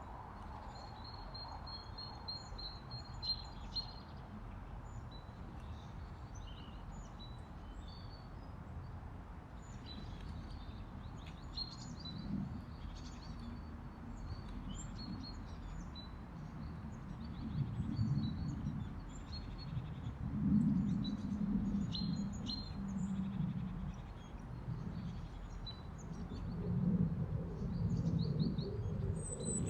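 Small songbirds such as tits chirping with short high calls over a steady outdoor background. From about halfway on, deeper low sounds come in repeatedly, each a second or two long.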